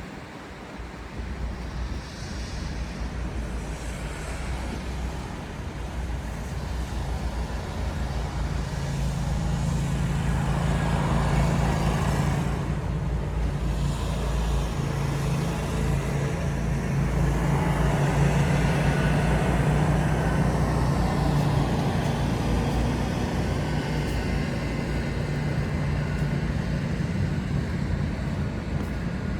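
City road traffic: cars passing with a hiss of tyres on a snowy street, swelling as vehicles go by twice, over a low engine hum that sets in about a quarter of the way through.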